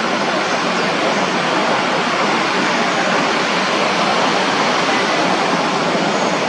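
Steady, even roar of a landing jet airliner, engine and airflow noise with no change in pitch.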